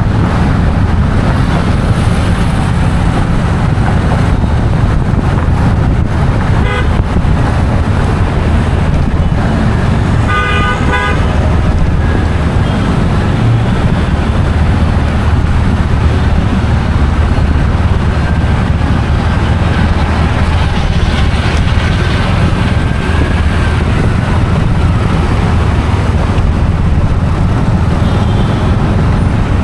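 Steady, loud road-traffic rumble, with vehicle horns honking twice: a short toot about seven seconds in, then a longer one a few seconds later.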